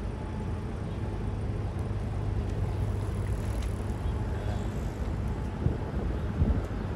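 Bentley Continental GT convertible's engine running as the car rolls slowly past, a steady low rumble over street traffic noise, with two brief louder bumps near the end.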